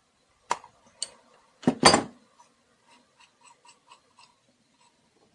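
Small metal parts and a hand tool knocking and clicking against a motorcycle carburetor during disassembly: a few sharp clicks, the loudest about two seconds in, then a short run of faint light ticks, about four a second.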